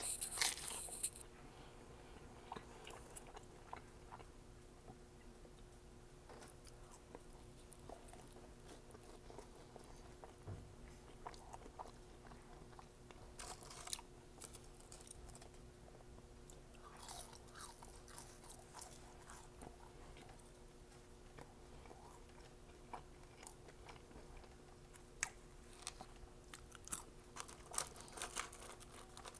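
A person chewing McDonald's food with the mouth closed: soft chewing with scattered crunchy bites and mouth clicks, louder right at the start, over a faint steady hum.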